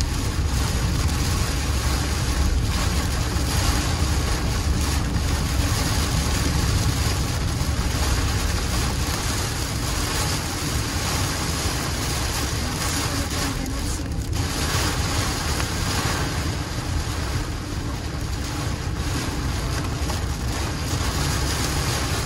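Torrential rain pounding a moving car, heard from inside the cabin, mixed with the low rumble of the car and its tyres on a flooded highway. A steady, unbroken wash of noise.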